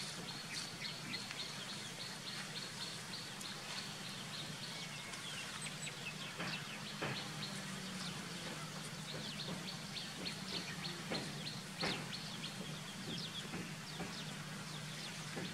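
Outdoor ambience of small birds chirping in quick, high runs of notes over a steady low hum, with a few sharp clicks.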